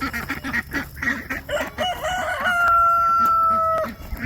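Chickens clucking, then a rooster crows once, a long call about two seconds in that rises and then holds for about two seconds before cutting off.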